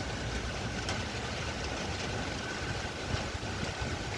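Thunderstorm rain and wind: a steady rushing noise, with an uneven low rumble from wind buffeting the microphone.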